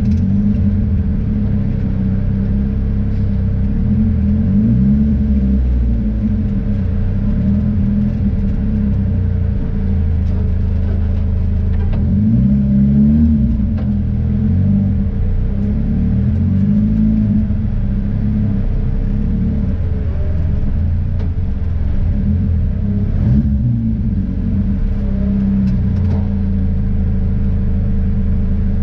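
Car engine and road rumble heard from inside the cabin while driving. The engine note rises and falls several times as the car speeds up and slows down.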